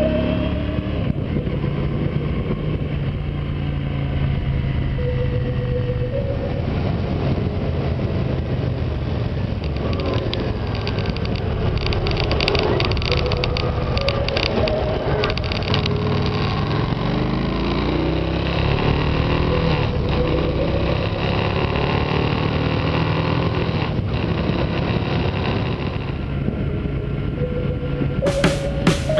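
2006 Honda Shadow 750's V-twin engine running at road speed under steady wind rush on the handlebar-mounted camera. The engine pitch climbs a couple of times as the bike accelerates.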